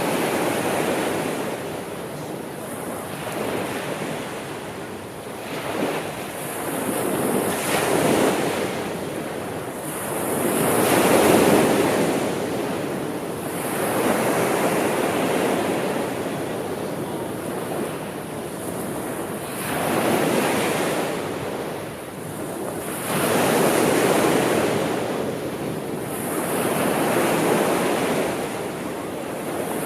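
Sea waves breaking and washing on the shore in slow surges every few seconds, each one swelling and fading, with some wind noise.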